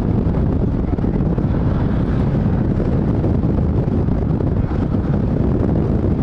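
Loud, steady rumble of wind buffeting the microphone, mixed with an engine-like drone, cut off abruptly near the end.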